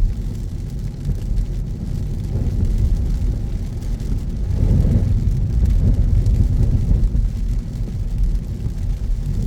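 Car driving, heard from inside the cabin: a steady low road and engine rumble that swells slightly around the middle.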